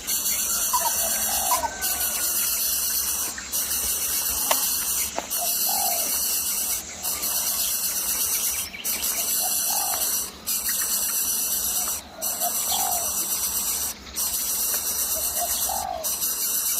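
A bird calling in short rising notes about every two seconds, over a loud, steady high-pitched hiss.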